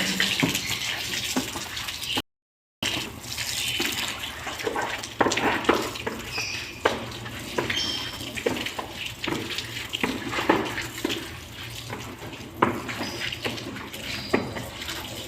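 Water running and splashing as a floor is washed, with frequent knocks and scrapes of cleaning. The sound cuts out briefly about two seconds in.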